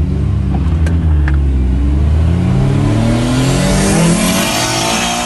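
Toyota GT86 engine heard from inside the cabin, accelerating hard from a standstill, its revs climbing steadily in one gear.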